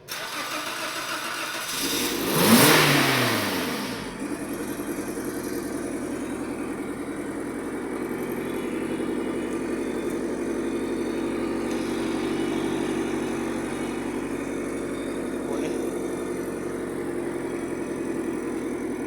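Toyota 2NR-VE 1.5-litre four-cylinder engine cold-started on an engine stand: it turns over for about two seconds, catches with a sharp flare in revs, then drops back over a second or so and settles into a steady idle.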